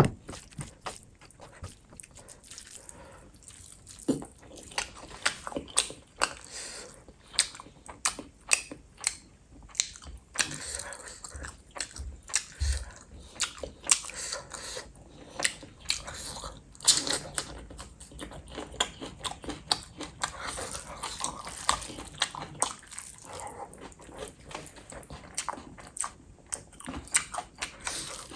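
A person chewing and eating rice and chicken in gravy by hand: wet mouth sounds with frequent, irregular sharp smacks and clicks.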